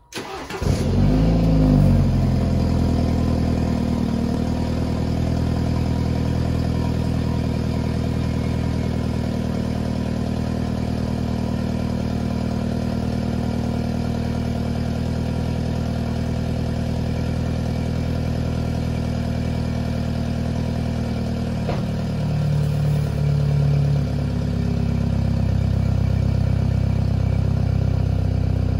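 BMW 430i's 2.0-litre turbocharged four-cylinder starting from cold through its stock exhaust: it catches at once, the revs flare briefly, then it settles into a steady idle. About 22 seconds in there is a click and the idle note shifts, growing slightly louder.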